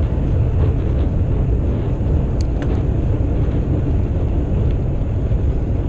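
Wind rushing and buffeting over the camera microphone as a bicycle rides along, a steady, loud, low rumble.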